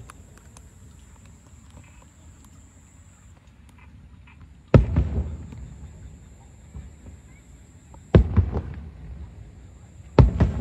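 Aerial firework shells bursting with deep booms. One comes about five seconds in, another about three seconds later followed by a couple of smaller cracks, and two more in quick succession near the end.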